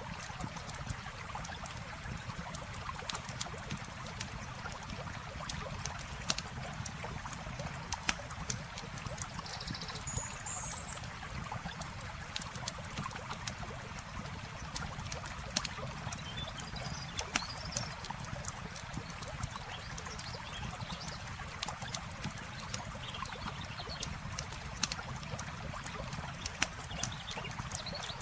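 Campfire crackling with scattered sharp pops over a steady rush of flowing water, with a few brief high chirps about ten seconds in and near the end.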